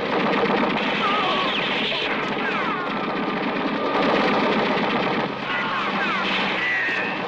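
Sustained rapid automatic machine-gun fire, the shots running together, with short falling whistling tones over it, in a war-film battle soundtrack.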